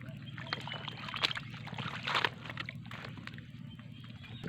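Shallow seawater sloshing and splashing, with scattered short clicks and a low steady hum underneath.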